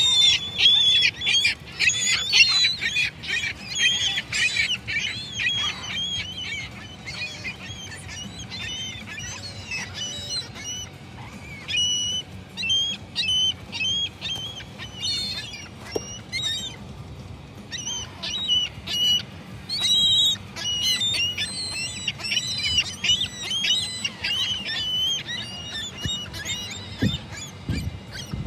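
A flock of gulls calling, many short overlapping cries, most crowded in the first few seconds and again past the middle.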